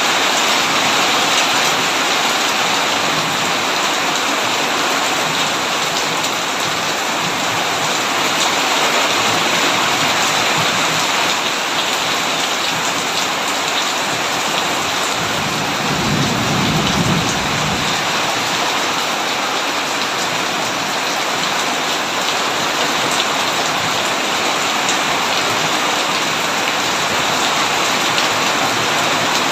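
Heavy rain pouring steadily on a tin roof. About halfway through, a low roll of thunder rumbles for a few seconds.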